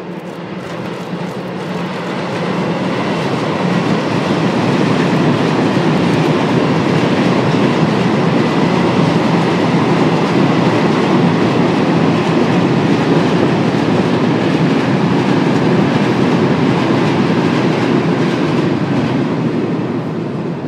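Freight train of tank wagons hauled by a Siemens Vectron electric locomotive rolling past, its wheels rumbling and clattering on the rails. The sound builds over the first few seconds as the train draws level, holds steady while the wagons go by, and fades near the end.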